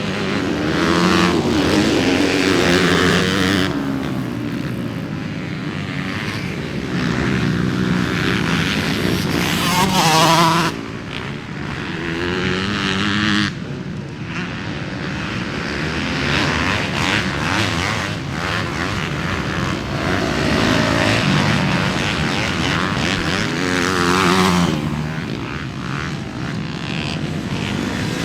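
Motocross dirt bike engines revving hard and backing off, the pitch repeatedly climbing and falling as the bikes accelerate and shift, with sharp drops in level about eleven seconds in and again a few seconds later.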